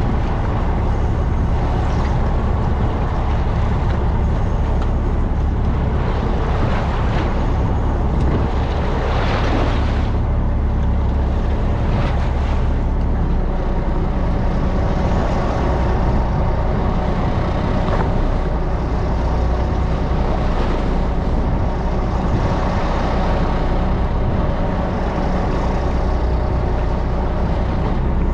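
A fishing boat's engine running steadily, a constant low hum under a rushing noise.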